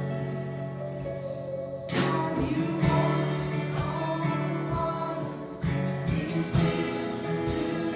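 Live gospel worship music: singing over strummed acoustic guitar.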